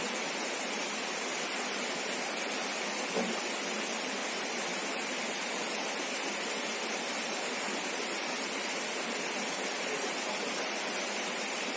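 Steady rush of flowing river water, with one faint brief knock about three seconds in.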